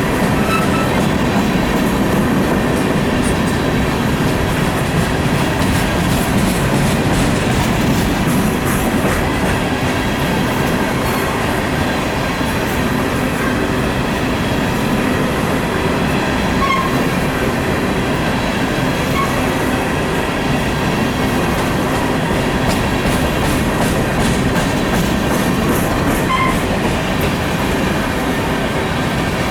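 Coal train cars rolling past: a steady rumble of steel wheels on rail, with a few brief faint wheel squeals.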